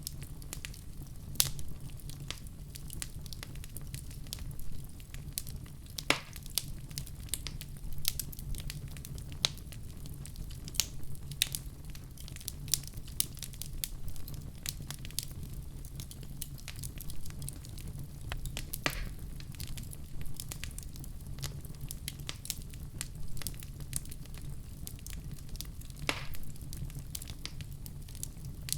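Wood fire burning in a fireplace: a steady low rumble with frequent sharp crackles and pops, a few of them louder, scattered irregularly.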